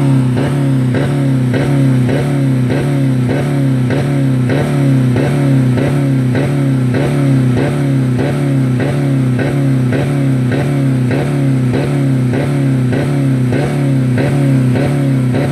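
2000 Dodge Neon four-cylinder engine held at the rev limiter, running steadily at about 4000 rpm, the limiter cutting in and out about twice a second. The engine has no oil or coolant left in it.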